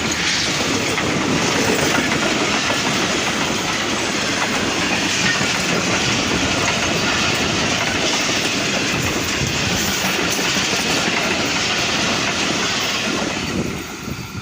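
Express passenger train passing close by at high speed, its carriage wheels clattering over the rail joints in a loud, steady rush that begins to die away near the end.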